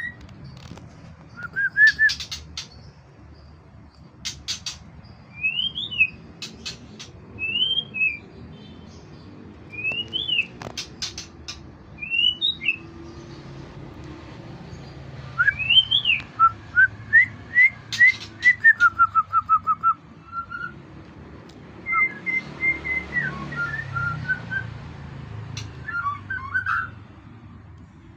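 A murai, a Copsychus songbird, singing in short, varied whistled phrases mixed with sharp clicking notes, in bouts separated by brief pauses; a rapid run of repeated notes comes about halfway through.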